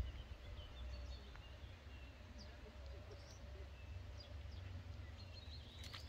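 Faint outdoor birdsong: scattered short chirps and whistles, more of them close together near the end, over a low steady rumble.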